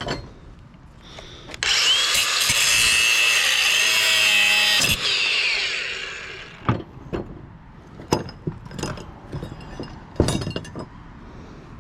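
A handheld power cutter runs for about three seconds, cutting into an electric motor's metal housing, then winds down after it is released. Several sharp metallic knocks and clanks follow.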